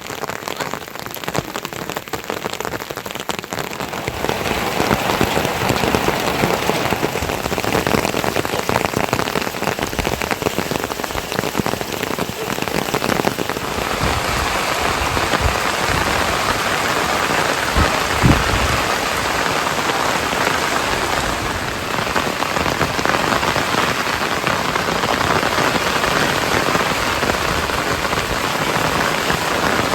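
Steady rain falling on surfaces, growing a little heavier after the first few seconds, with one short low thump about two-thirds of the way through.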